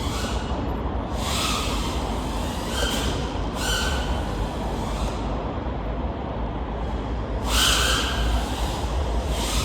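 3.5-inch FPV quadcopter's 1405 4800KV brushless motors and props, heard over steady low wind rumble, surging in short throttle punches with a whine, about a second in, twice around three to four seconds, and loudest near eight seconds.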